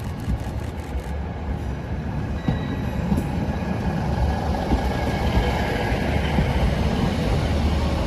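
ScotRail Class 156 Sprinter diesel multiple unit, with underfloor Cummins diesel engines, running slowly into the platform. Its engine and wheels on the rails make a steady rumble that grows louder as the coaches draw alongside.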